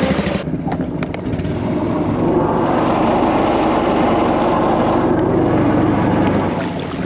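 Predator 212 single-cylinder four-stroke engine powering a homemade mini jet boat, running steadily and then picking up to a busier, louder run about two seconds in.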